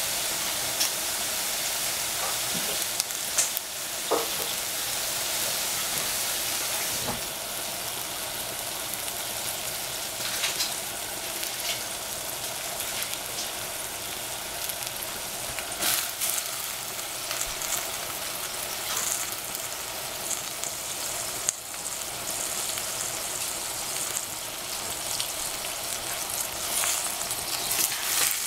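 Cabbage greens and oyster mushrooms sizzling steadily in a stainless steel saucepan, with scattered small pops and crackles. Near the end a wooden spatula stirs them and the sizzle grows busier.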